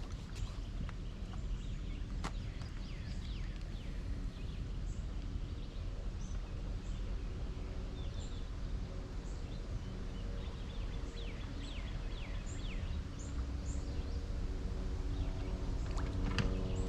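Birds calling with many short, quick falling chirps over a steady low rumble. Near the end a steady hum with several pitches comes in.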